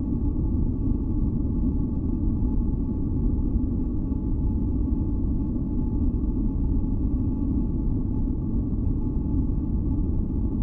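Continuous deep masking noise of a sleep and relaxation white-noise track. It is heaviest in the low end, with a faint steady hum of thin tones above it, and it never changes.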